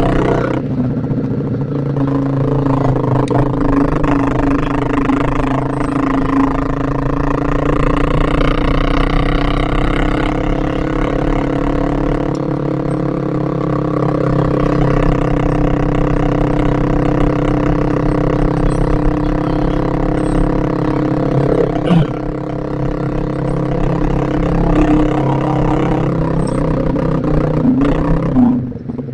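Motorcycle engine of a Yamaha Vixion running steadily under way, its pitch rising and easing off a little partway through, with one sharp knock about three quarters of the way in.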